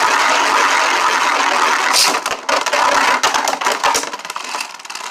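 Beyblade spinning tops whirring and scraping against each other and the plastic stadium, with a sharp clack about two seconds in as they collide. The whirring dies down near the end.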